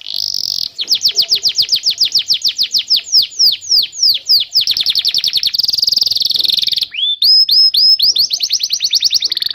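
Domestic canary singing a long, fast song of rapid trills. Runs of quick down-sweeping notes change pace from phrase to phrase, with a buzzy rolled passage in the middle, a few rising notes after a brief break, and a fast trill near the end.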